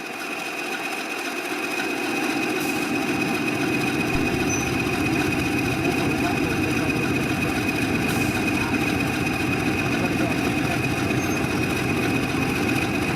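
English Electric Class 20 1000 bhp diesel locomotive engine running steadily, with the constant high-pitched whine of its turbocharger over the engine's drone; the sound grows a little louder over the first two seconds and then holds steady.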